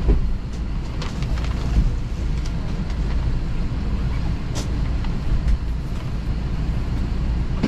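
Steady low rumble in an Airbus A320 cabin on the ground after landing, with scattered light clicks and knocks and one sharp click about four and a half seconds in.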